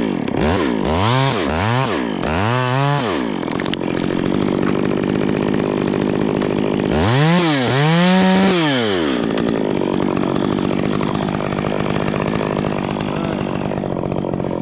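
Two-stroke chainsaw revving up and down four times in quick succession, then idling, with one longer rev about seven seconds in before it settles back to a steady idle.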